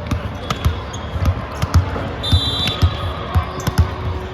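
Irregular thuds of a volleyball and feet on a gym floor during play, with a short high-pitched tone about two seconds in and voices in the background.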